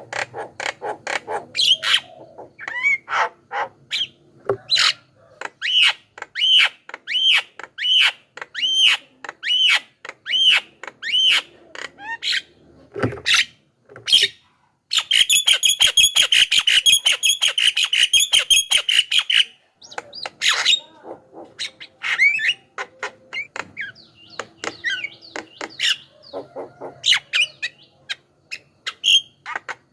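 Javan myna calling: a varied run of sharp chirps and squawks, with a stretch of the same chirp repeated about three times every two seconds, then a dense, rapid chattering spell lasting several seconds around the middle, followed by more mixed whistles and squawks.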